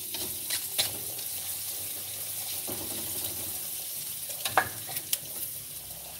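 Sliced chillies and spices sizzling in a hot metal wok while a metal spatula scrapes and taps against the pan. Two sharper knocks come late on.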